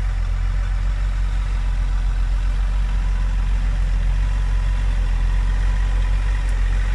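Off-road 4x4's engine running steadily at low revs while the vehicle creeps slowly.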